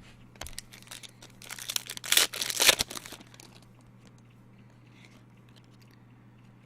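Trading cards and their plastic packaging being handled, a run of crinkling and rustling that is loudest around two seconds in and then stops, leaving a faint steady hum.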